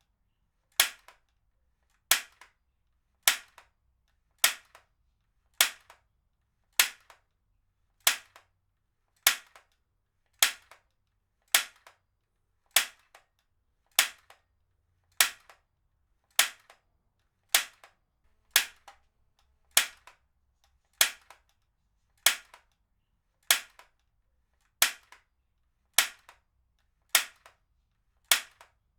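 Heavy-duty stapler firing again and again at an even pace, a sharp snap about every 1.2 seconds, each followed by a fainter click.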